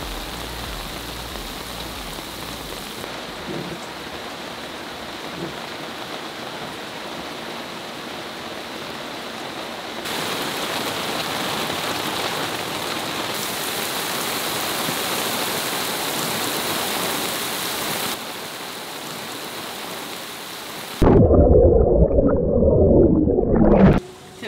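Steady hiss of heavy rain falling on water and on a sailboat's deck and dodger. Near the end a loud low rumble lasts about three seconds.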